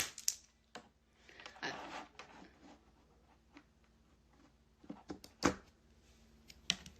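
A few scattered sharp clicks and taps from working a computer mouse and keyboard, the loudest about five seconds in, with a soft rustle around two seconds in.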